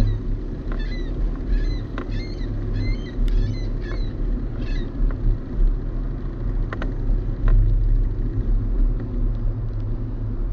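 Steady wind rumble on a GoPro's microphone while cycling along a trail, with a bird chirping repeatedly in the first half.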